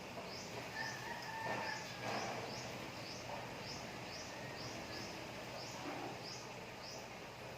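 Faint bird sounds: short high chirps repeating about twice a second, with a longer pitched call about a second in that sounds like a rooster crowing.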